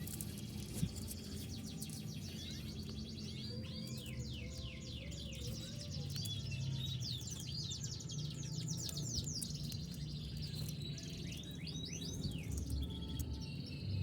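Domestic canary singing: long rolls of fast, evenly repeated trill notes, one run after another, over a steady low hum.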